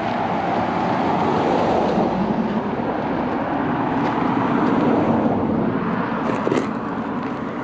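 A car driving past with its engine and tyre noise, swelling over the first couple of seconds, holding, then fading away.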